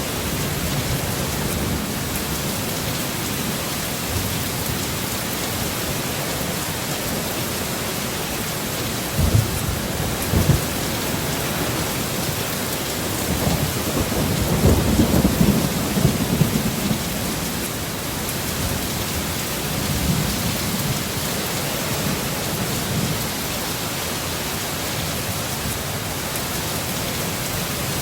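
Steady heavy rain with thunder: a couple of sharp low cracks about nine to ten seconds in, then a longer rolling rumble swelling and fading around the middle.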